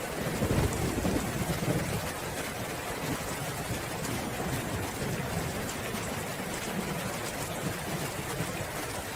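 Steady rain falling, an even hiss, with a low roll of thunder rumbling through the first couple of seconds and then fading.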